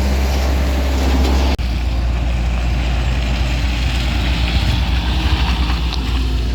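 Heavy vehicle engine running steadily with a deep hum, broken by a sudden short dropout about a second and a half in.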